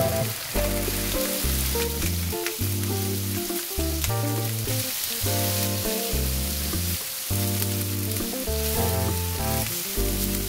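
Tofu cubes sizzling as they pan-fry in oil in a nonstick frying pan, with a few light scrapes of a spatula turning them. Background music with changing bass notes plays over it.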